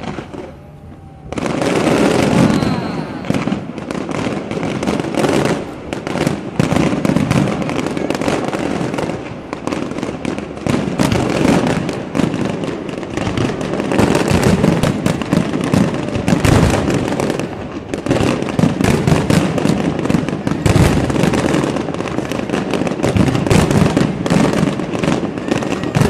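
Fireworks display: a dense, continuous barrage of bangs and crackling from many aerial shells bursting at once, starting about a second in.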